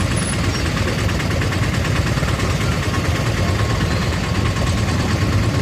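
Steady low rumble of vehicle engines idling in a traffic jam.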